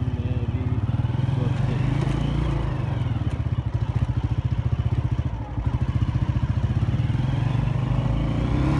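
A 125 cc motorcycle engine running with a fast, even beat, revving as the bike moves off from a stop and rides on.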